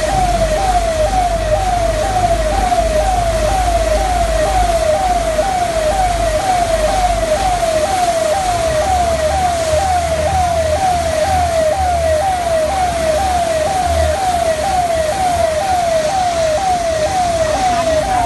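Electronic siren sounding continuously, its pitch sweeping rapidly up and down about twice a second, over a steady hiss and a low rumble.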